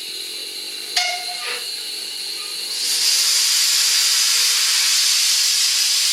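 A steady hiss that becomes much louder about three seconds in and holds, like pressurised air or steam escaping, with a sharp metallic click about a second in.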